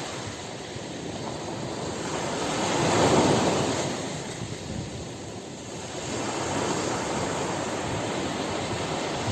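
Ocean surf washing onto a beach: a wave swells to its loudest about three seconds in, falls away, and the next builds from about six seconds.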